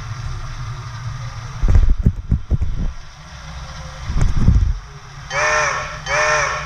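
Low rumbling surges twice, then a locomotive signal sounds two short blasts, each with a slight rise and fall in pitch; two short blasts is the standard railroad signal for releasing brakes and proceeding.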